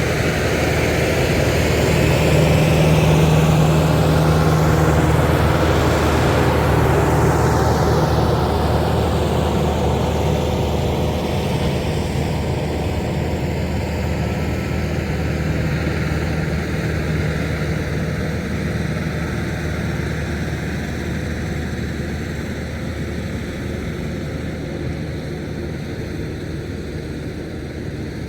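Farm tractor's diesel engine running steadily while pulling a rotary tiller, loudest a few seconds in and then slowly fading as it moves away.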